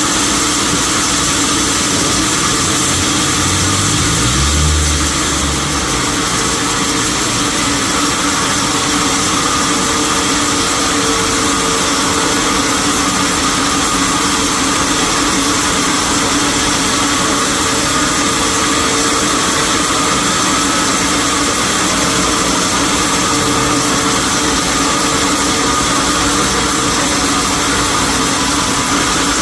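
Sawmill machinery running steadily, a loud even mechanical drone with a few steady tones in it. A brief low rumble comes about four to five seconds in.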